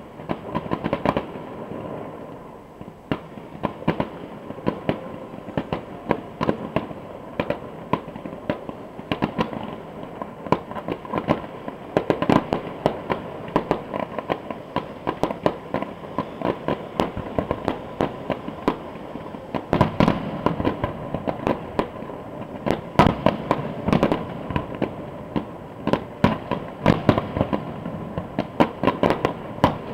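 Fireworks display going off: a continuous run of bangs and crackles, thickening into rapid volleys about twelve seconds in and again in the last third.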